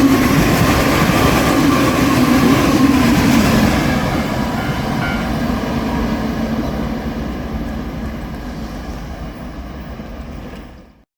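A JR Shikoku 8000 series electric train running past. It is loud for the first few seconds, with a slowly falling tone, then fades away steadily and cuts off suddenly near the end.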